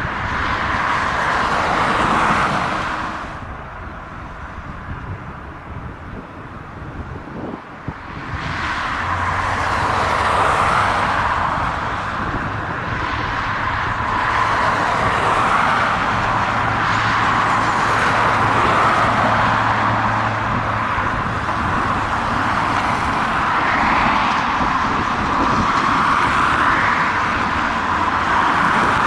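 Airbus A350-1000's Rolls-Royce Trent XWB jet engines running at ground idle, a steady rushing hum that drops back for a few seconds early on and then returns, with a low drone underneath for a while.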